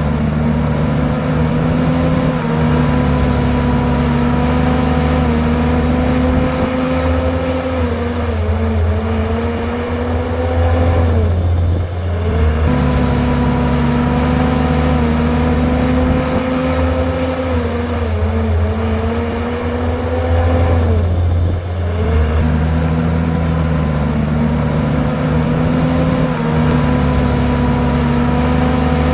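Komatsu bulldozer's diesel engine running under load. Its pitch sags twice, as the engine lugs while pushing soil and rock, then climbs back up each time.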